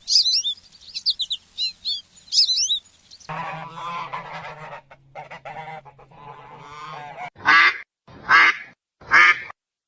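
Birds calling in a series of clips: quick high chirps at first, then a run of lower, pitched calls, then three loud calls about a second apart near the end.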